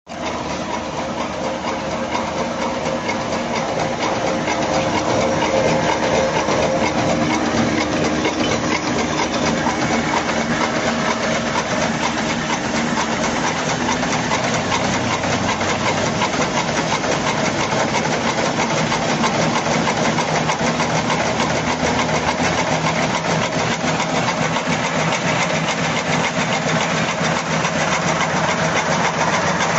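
LSHF-0-230 napkin-making machine running, a steady fast mechanical clatter from its sheet-feeding and cutting mechanism, getting louder over the first few seconds.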